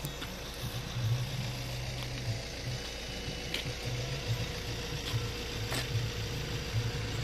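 Vehicle engine idling: a low, uneven rumble with a steady hum over it and a few faint clicks.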